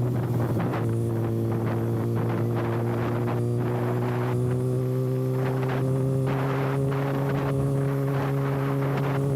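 Kawasaki ZX-6R inline-four running with its exhaust canister removed, a steady note that wavers briefly at the start, then holds and creeps slowly higher. Wind buffets the microphone throughout.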